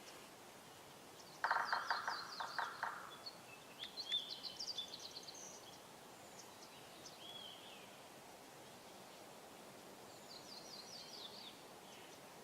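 Birdsong: a few short trilled phrases of rapid chirps. The loudest comes about a second and a half in, more follow a couple of seconds later, and a softer trill comes near the end.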